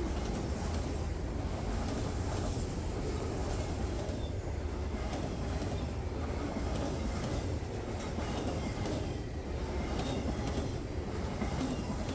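Freight train cars rolling past, steel wheels rumbling steadily on the rails with faint clicks over the joints.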